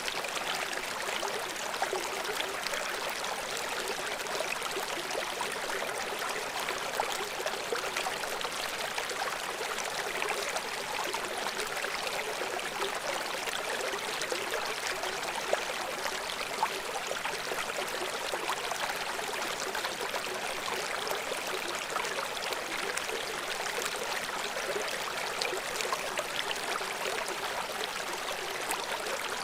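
River water flowing steadily, a dense even rush full of small splashes, with little deep rumble.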